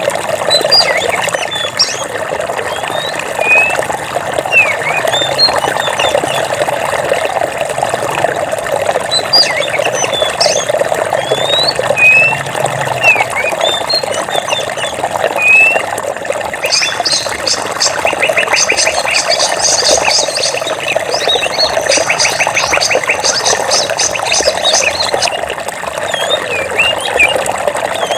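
Forest stream running steadily, with small birds chirping in short, rising and falling notes over it. About two-thirds of the way in, a fast rattling trill of rapid notes joins for several seconds.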